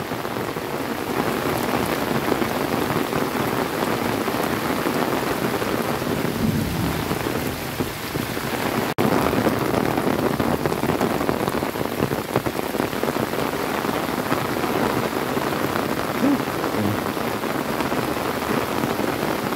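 Very heavy rain falling steadily, a dense even hiss, with a momentary break about nine seconds in.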